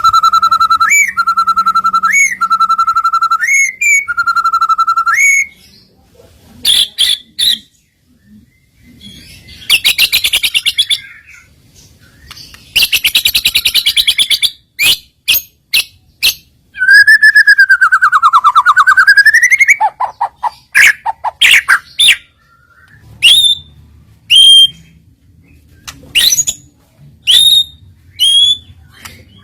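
White-rumped shama (murai batu) singing a varied series of loud whistled phrases: repeated steady high whistles at first, dense buzzy rattling phrases in the middle, a long whistle that dips and rises again, then sharp upswept notes about once a second near the end.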